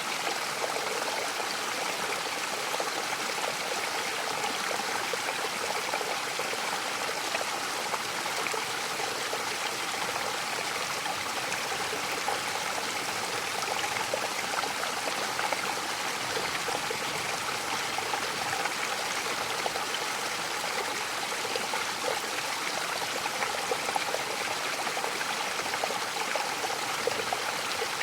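Mountain waterfall: water falling and splashing in a steady, unbroken rush.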